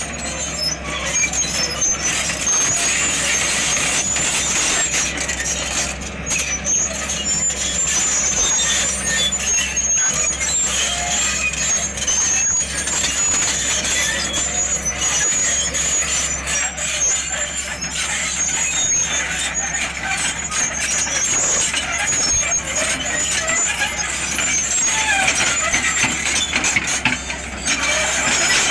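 Sany 210 excavator working, with a steady low drone and a continuous high-pitched squeal over it.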